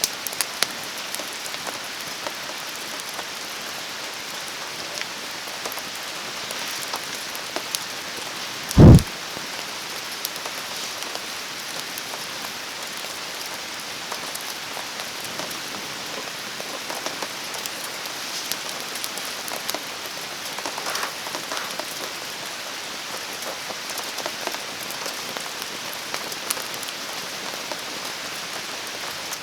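Steady rain falling, with scattered sharp little ticks and pops throughout. About nine seconds in comes a single brief, deep thump, the loudest sound.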